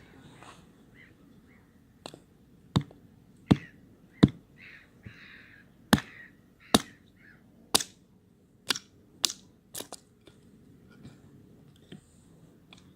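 Campfire burning fir branches, giving about ten sharp, loud pops and cracks over several seconds, with soft hissing between them.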